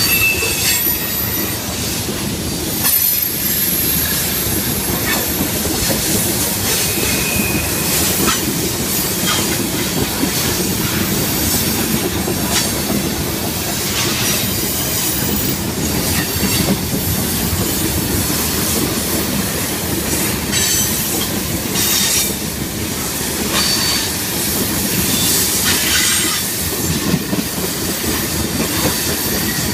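Freight train of tank cars rolling past at close range: a steady rumble of wheels on rail, with irregular clicks over the rail joints and a few short, high wheel squeals.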